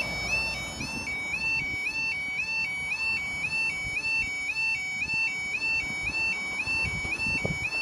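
Level crossing's electronic audible warning sounding: a high, regular two-tone warble repeating several times a second, warning that a train is approaching.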